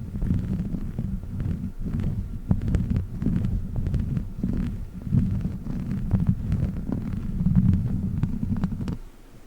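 A woven witch-finger (Chinese finger trap) tube rubbed and squeezed right on the microphone. It makes a dense, muffled low rumble scattered with small crackles, which stops abruptly near the end.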